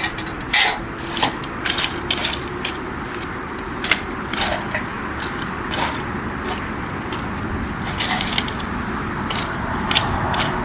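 Wood campfire crackling: sharp pops and snaps over a steady hiss of burning, the pops thickest in the first few seconds and sparser after.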